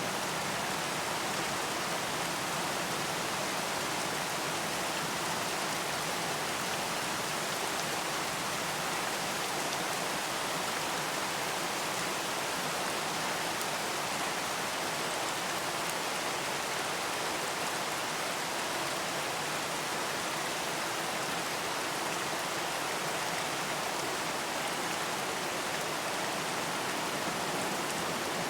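Steady, even rain hiss with no thunder or other events.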